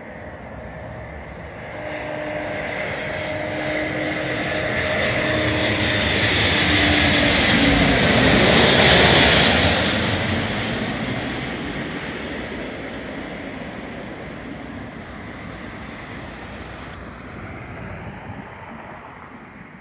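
Aircraft engines passing close by, building up to a peak about nine seconds in and then fading away. A couple of steady engine tones drop slightly in pitch as it goes past.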